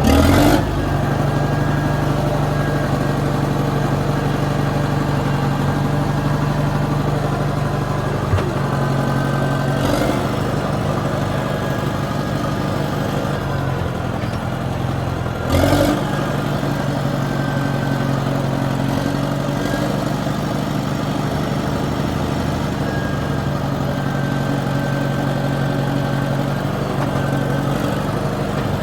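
Engine of a piece of heavy machinery running steadily, with a brief rise in engine load at the start and again about halfway through.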